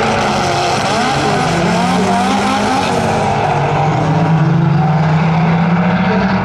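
Car engine at full throttle accelerating down a drag strip, its pitch rising and dropping back as it shifts.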